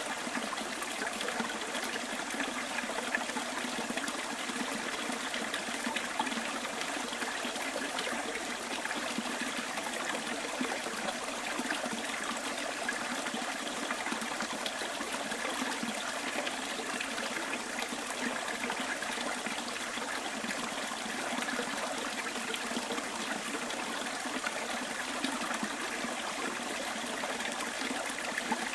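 Small stream trickling and burbling over stones in a steady, unbroken flow.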